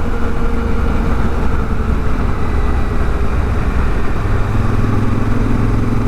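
Honda Africa Twin motorcycle riding at highway speed: a steady engine note under wind and road noise, with a deeper engine tone coming up about four seconds in.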